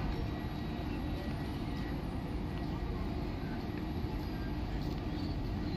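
Passenger train coaches rolling slowly past at departure: a steady low rumble of wheels on the rails.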